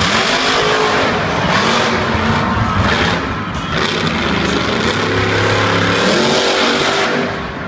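Monster truck engine running hard and revving, its pitch rising and falling several times as the truck is driven around the arena.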